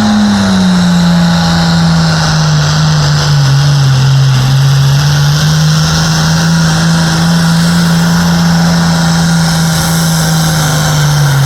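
Pulling vehicle's engine running flat out under heavy load as it drags the weight sled. Its pitch sags a little in the first few seconds, holds steady, then drops away sharply at the very end as the throttle comes off.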